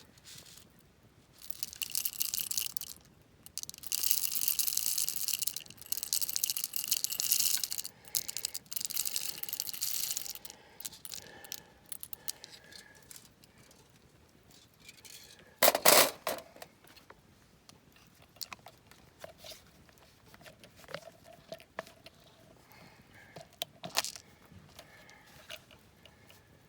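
Coffee beans rattling in a hand-held mesh roaster shaken over a campfire, in several spells over the first ten seconds. After that it goes quieter, with scattered crackles and one sharp pop about sixteen seconds in.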